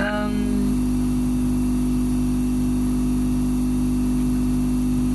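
Ozone generator running with a steady electrical hum.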